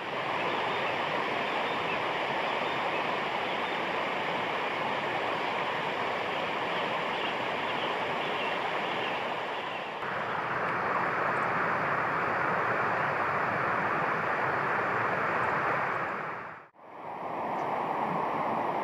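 Steady rushing of flowing water, such as a river running over rocks or a weir. The sound changes abruptly about ten seconds in and drops out for a moment near the end, at cuts between clips.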